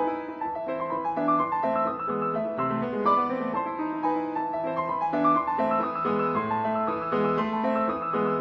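Piano playing a classical passage: a continuous flow of overlapping notes.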